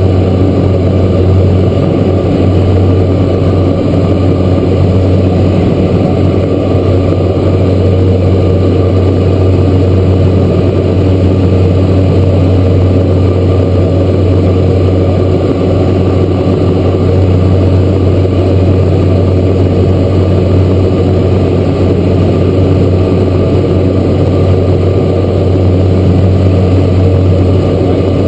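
Cessna Grand Caravan's Pratt & Whitney PT6A turboprop and propeller running, heard from inside the cabin as a loud, steady low drone with a hum of higher tones above it that holds even throughout.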